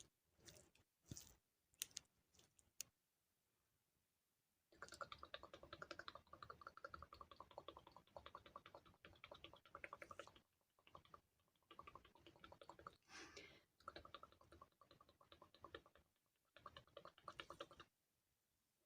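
ASMR tapping and clicking sounds: a few separate taps, then from about five seconds in long runs of rapid fine tapping with brief pauses between them.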